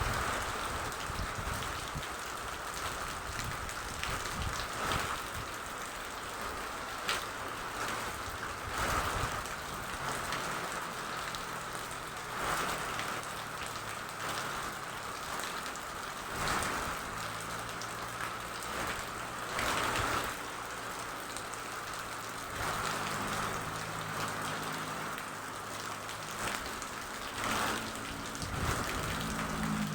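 Steady rain falling on a surface, with frequent louder splashes of drops. A low steady hum comes in about a third of the way through and continues under the rain.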